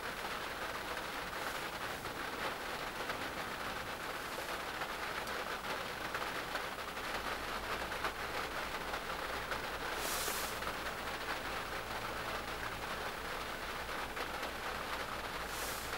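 Light rain pattering steadily on the roof of a small van, heard from inside the cabin, with a couple of short hissing swells.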